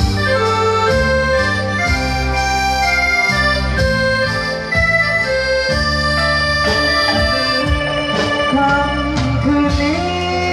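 Thai likay band playing an instrumental introduction: a melody of held notes over a steady drum beat.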